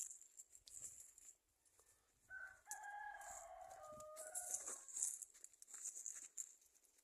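A rooster crowing once, a single long crow of about two and a half seconds that starts a little over two seconds in, heard faintly.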